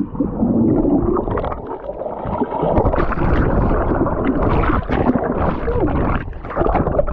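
Muffled underwater bubbling and gurgling of churned water, heard through a camera plunged under the surface by a jump into the sea.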